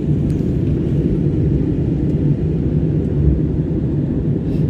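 Steady cabin noise inside a jet airliner in flight: a constant low rumble of the engines and rushing air.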